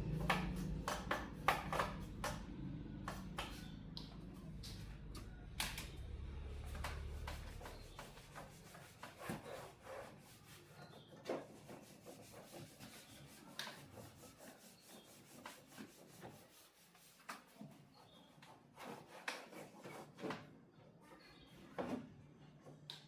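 Hands working on parts of an opened television: irregular rubbing and scraping with light clicks and taps, and a low hum in the first part that fades away.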